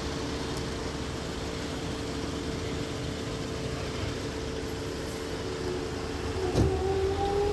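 A vehicle engine running steadily with a constant hum. About six and a half seconds in there is a knock, and a slowly rising whine begins.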